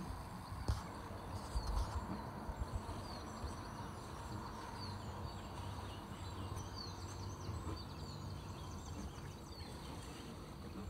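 Small birds chirping and singing, with many short falling notes, over a steady low hum. A few low thumps come about one and a half to two seconds in.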